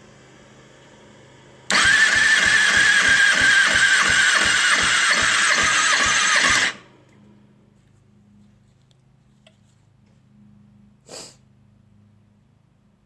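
2009 Kawasaki ZX-6R inline-four engine spun over on its electric starter for about five seconds during a compression test, the cranking pulsing evenly about three to four times a second and stopping abruptly. A single short click comes a few seconds later.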